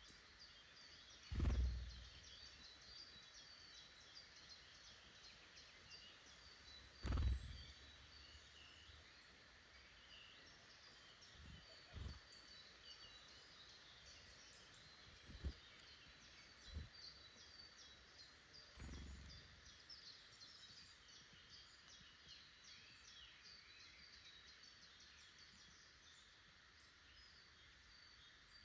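Woodland birds chirping and singing, many short high calls overlapping without a break. Six dull low thumps stand out, the loudest about a second and a half in and again about seven seconds in.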